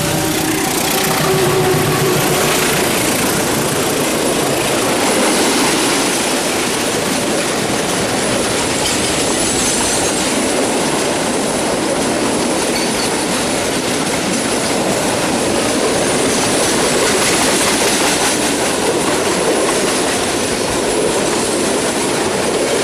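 Train passing close by: a steady, loud rolling noise of wheels on the rails.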